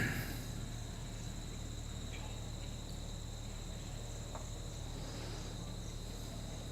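Crickets chirring steadily with one constant high-pitched tone, over a low steady hum.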